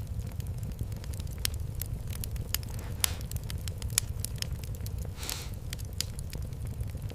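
Fireplace fire crackling, with scattered sharp pops over a steady low rumble of burning and a brief hiss about five seconds in.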